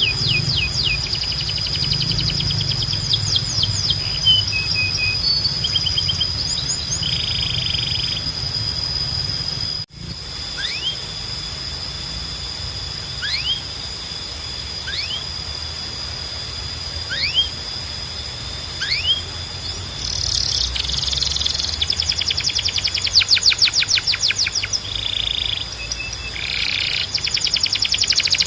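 Domestic canaries singing: quick trills with sliding notes, then spaced single rising chirps every second or two, building into long rapid rolls and trills in the last third. The sound cuts abruptly about ten seconds in, where one recording gives way to another, and a steady low hum runs underneath.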